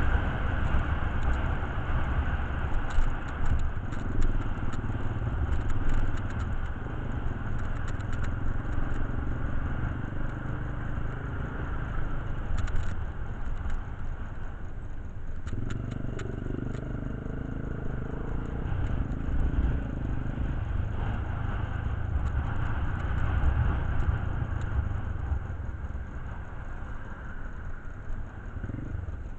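Motorcycle engine running with a steady low rumble, with scattered light clicks and rattles.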